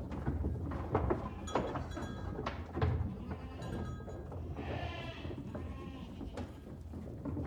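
A farm animal gives one wavering bleating call about five seconds in. Several sharp knocks come before it, and a steady low rumble runs underneath.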